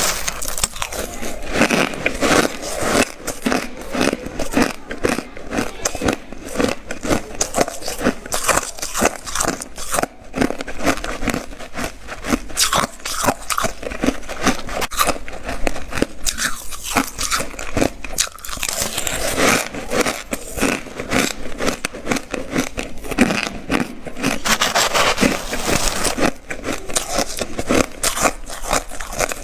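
Close-up crunching of ice being bitten and chewed: dense, rapid crackling crunches one after another, with a short lull about ten seconds in.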